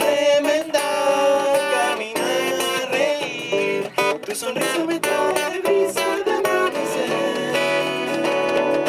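Acoustic guitar strummed and picked, with singing in places, playing a song.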